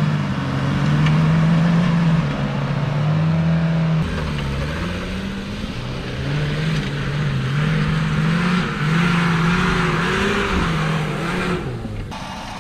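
Suzuki 4x4 engine revving hard under load as the cars pull against each other, its pitch holding high, dipping and climbing again. A loud hiss joins in during the second half, and the sound changes abruptly about four seconds in and again near the end.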